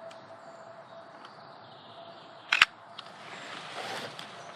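Canon EOS R camera shutter firing once: a single sharp double click about two and a half seconds in, over faint outdoor background.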